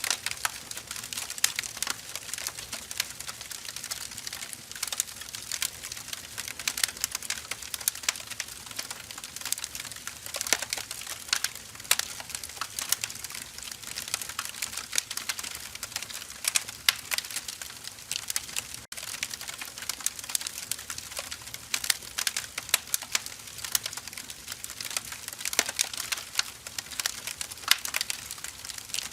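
Burning firewood crackling steadily: irregular snaps and pops of the logs over a soft hiss, several a second, with an occasional louder pop.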